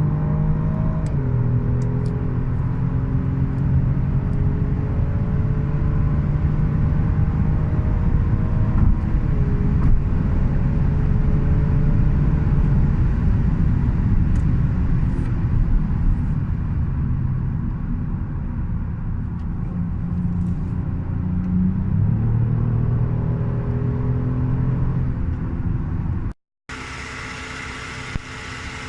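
Kia Stinger's 3.3-litre twin-turbo V6 under hard acceleration at high speed, its pitch climbing slowly through long gears, with upshifts about a second in and about nine seconds in, over heavy road and wind rumble. Near the end the sound cuts out briefly and is replaced by a quieter, steady engine hum.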